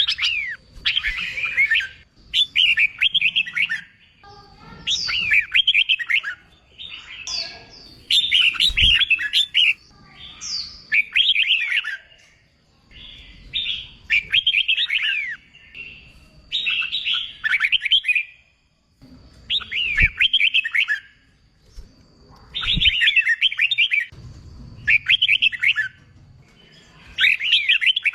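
Red-whiskered bulbul singing: short, quick warbled phrases about a second long, repeated every second or two with brief pauses between them.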